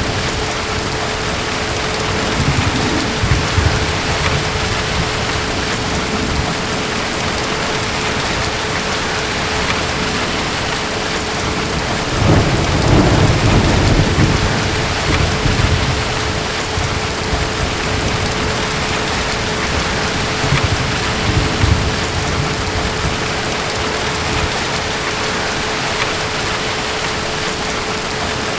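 Steady rain with low rumbles of distant thunder rolling in now and then, the strongest about twelve seconds in and lasting a few seconds.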